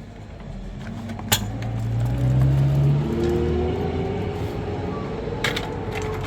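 An engine speeding up, its pitch rising and growing louder over the first three seconds, then running steadily. A sharp click sounds about a second in.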